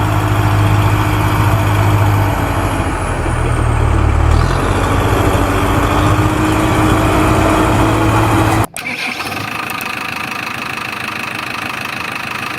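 Heavy vehicle engine sound effect running loudly with a deep steady rumble and a high whine that rises and falls. About eight and a half seconds in it cuts off abruptly and a quieter, different machine sound with a steady high tone takes over.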